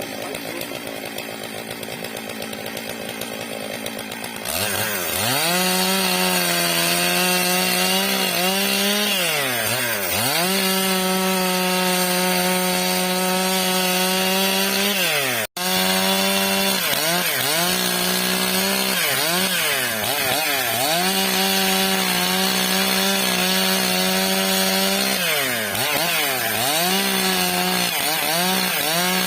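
Stihl MS 661 two-stroke chainsaw ripping a eucalyptus log lengthwise. It runs quieter for the first few seconds, then goes to full throttle in the cut with a steady high engine note that sags and recovers several times. The sound drops out for an instant about halfway through.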